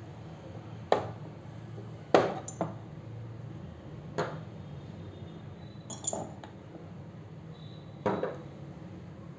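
Chess pieces being set down on a board as moves are played: a handful of sharp clicks and clinks, spaced a second or two apart, some in quick pairs.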